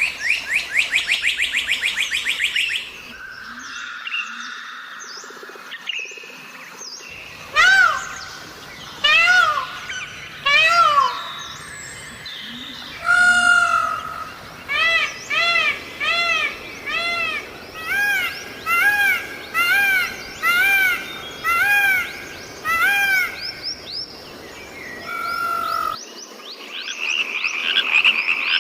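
Birds calling: a fast trill at first, then runs of short rising-and-falling calls repeated about twice a second through the middle, and a fast trill again near the end.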